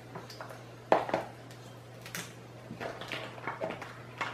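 Crab shell being cracked and pulled apart by hand: a series of sharp cracks and clicks, the loudest about a second in.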